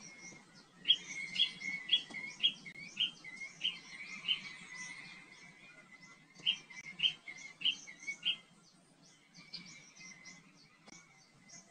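A bird chirping in short, sharp rising notes, about two a second, in one run of seven and then, after a pause, a run of four. Fainter high twittering goes on behind it.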